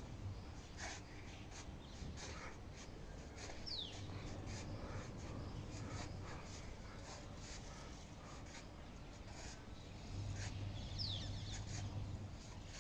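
Birds chirping in short, scattered calls, with two quick high whistles falling in pitch about four and eleven seconds in, over a low steady rumble.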